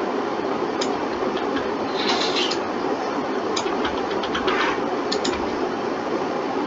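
Steady background hiss and hum from the recording setup, with scattered sharp clicks of a computer mouse and keyboard and a short flurry of key taps about two seconds in.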